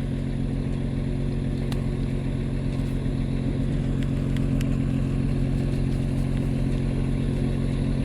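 A vehicle engine idling steadily, with a few faint light clicks over it.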